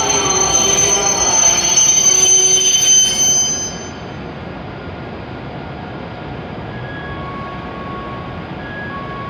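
E7 series Shinkansen train braking to a stop alongside the platform, with a high squeal and whining tones that die away about four seconds in. A steady hum follows once the train has stopped.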